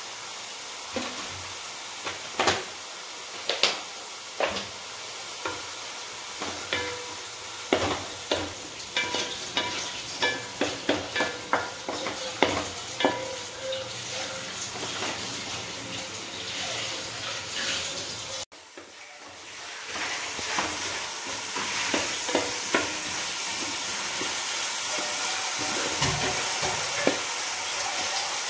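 Wooden spatula stirring and scraping chopped onions, tomatoes and green chillies sautéing in oil in a non-stick pan, with frequent clicks over a sizzle. The sound cuts out briefly about two-thirds through; after that the sizzle is steadier, with fewer clicks.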